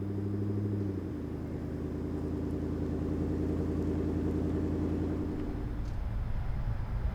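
Pickup truck engine running at a steady speed. The note shifts about a second in, and near the end it gives way to a rougher, lower rumble.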